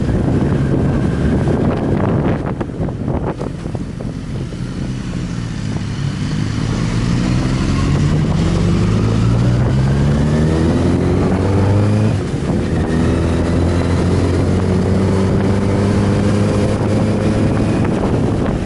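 Wind buffeting the microphone while an inline-four sport motorcycle engine accelerates, its pitch climbing steadily from about five seconds in. It drops sharply at an upshift near twelve seconds, then climbs again more slowly.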